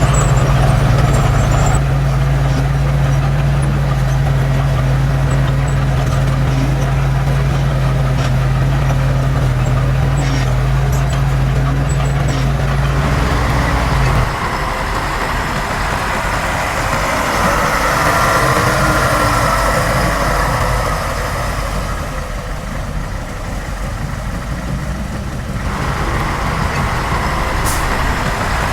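Diesel engine of heavy earthmoving machinery running: a steady low engine hum that changes about halfway through to a rougher, noisier working sound.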